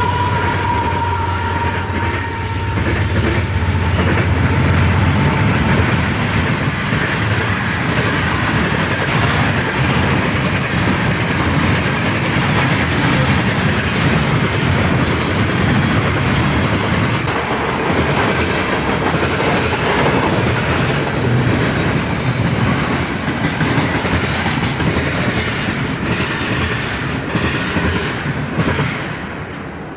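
A train rolling past close by, its wheels clattering steadily over the rail joints, with some wheel squeal.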